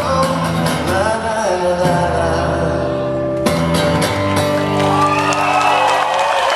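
Live music in a hall: a voice sings a wordless, sliding melody over steady held low notes, with a brief break about three and a half seconds in.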